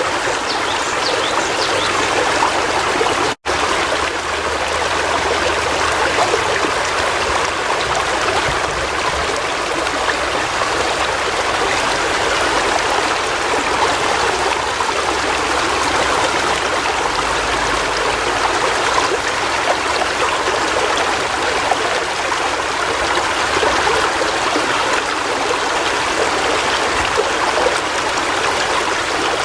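River water flowing steadily, with one momentary dropout to silence about three and a half seconds in.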